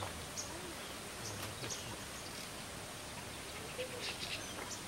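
A few short, high chirps from small birds, in a brief cluster about a second and a half in and again about four seconds in, over a steady background hiss.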